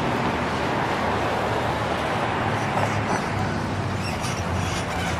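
Diesel locomotives running with a steady low engine drone under an even rushing noise.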